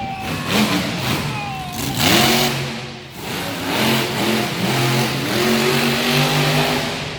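Monster truck engine revving hard, its pitch climbing and falling several times with a brief dip about three seconds in.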